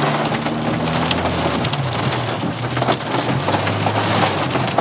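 Heavy rain drumming on a car's roof and windscreen, heard from inside the car, dense and steady with many sharp individual hits. A low steady hum runs underneath.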